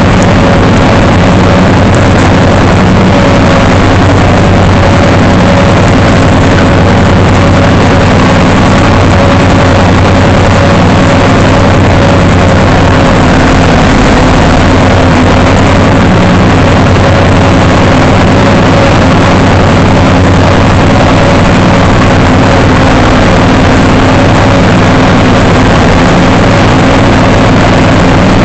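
A loud engine running steadily at one constant speed, with no change in pitch.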